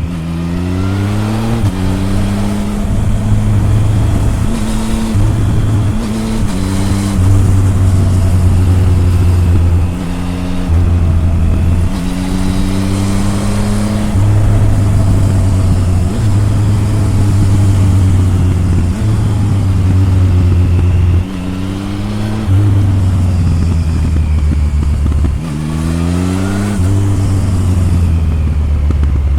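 Triumph Tiger 1050's inline three-cylinder engine, heard through an exhaust-mounted microphone, repeatedly accelerating with rising pitch and dropping back at each gear change, with stretches of steady running in between and a few short drops in loudness as the throttle closes.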